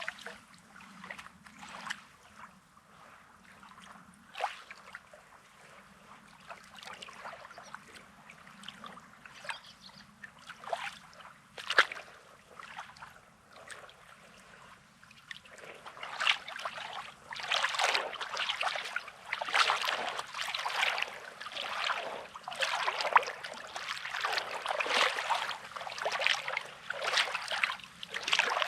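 Small sea waves lapping and washing over a rocky, sandy shore with irregular splashes and trickles. The water is sparse and soft at first and becomes busier and louder about halfway through.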